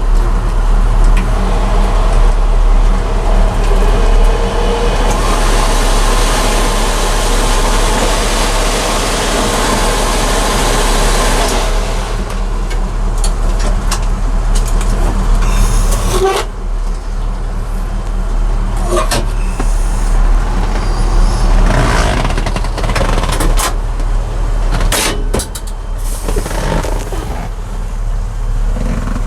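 Steady running of a 1966 Chevy C-10 pickup's 350 V8, with a constant low hum under a broad rushing noise. The rushing noise eases about twelve seconds in, and a few sharp knocks or clicks come in the second half.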